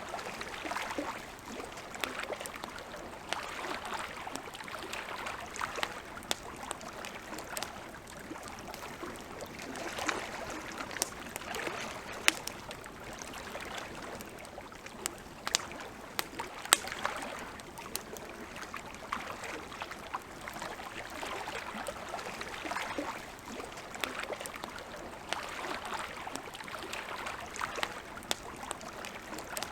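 Campfire crackling: irregular sharp pops and snaps, a few louder ones about halfway through, over a steady rushing hiss.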